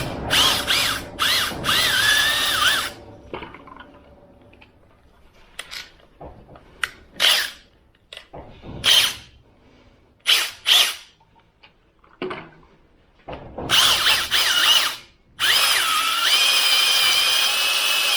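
Electric drill spinning a stone cylinder hone inside an engine block's bores. It runs for a few seconds, then in a string of short bursts with pauses, then steadily again with a held whine from a little past the middle to the end. The hone is cleaning rust and dirt marks off the bore walls.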